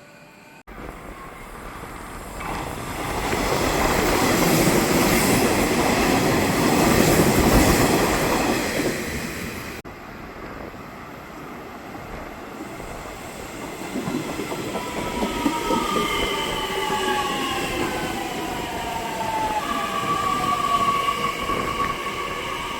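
Nishitetsu electric train passing at speed: a rush of wheels on rail that swells and fades. After a cut, a train runs with high whining tones that slide down in pitch.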